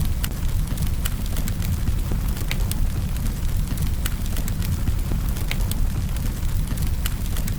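Campfire burning: a steady low rumble of the flames with irregular sharp pops and crackles from the wood.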